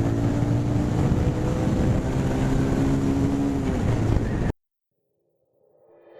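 Bajaj Pulsar 180F's single-cylinder engine running steadily while riding, with wind noise on the microphone. The sound cuts off suddenly about four and a half seconds in, and music fades in near the end.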